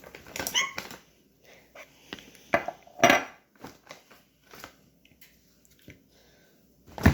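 Kitchen dishes and utensils handled: scattered clinks and knocks, a louder clatter about three seconds in, and a sharp knock near the end.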